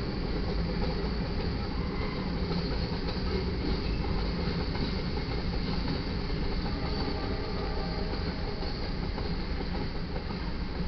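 Freight train cars (tank cars and covered hoppers) rolling past close by: steady noise of steel wheels running on the rails.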